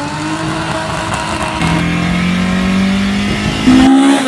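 Car engine under hard acceleration, its note climbing steadily for a couple of seconds and jumping higher near the end.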